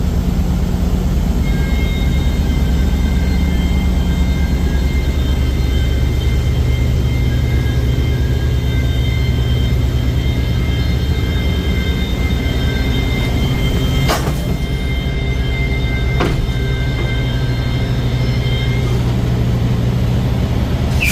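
Heavy truck engine running with a steady low drone, heard from inside the cab while driving, with a faint high steady whine over it. There are two sharp clicks about two seconds apart, past the middle.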